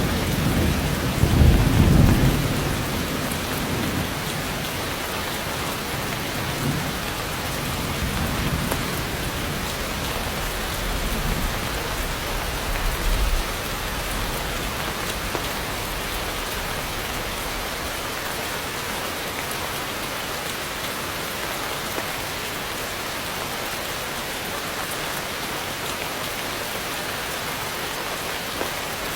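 Heavy rain falling steadily, with low thunder rumbling about a second in and weaker rumbles around the middle.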